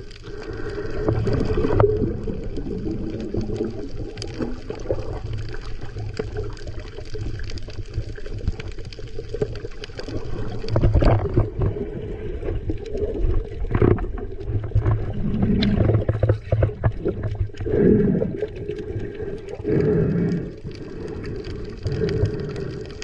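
Muffled water sloshing and gurgling around a camera in the sea, rising and falling in surges, with a few knocks.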